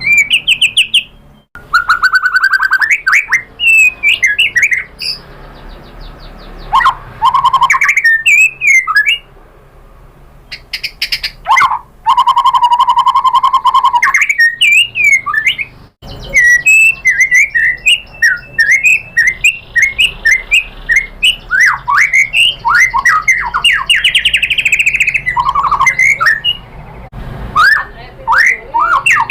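White-rumped shama (murai batu) singing a loud, varied song of whistled sweeps, trills and rapid chattering runs, with a held whistle near the middle and brief pauses between phrases.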